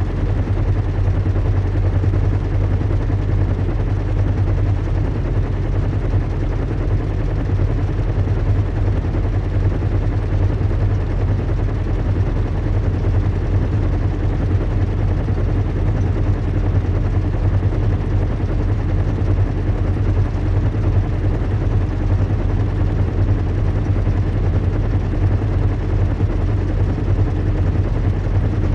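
Recreated airship-in-flight ambience: a steady, deep engine hum with a low rumble, holding the same pitch and level.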